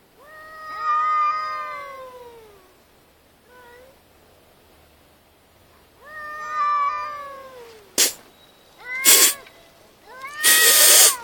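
Cats caterwauling in a fight: two long drawn-out yowls that sag in pitch, with a short call between them. These are followed by three sudden harsh, noisy screeches, the last the loudest.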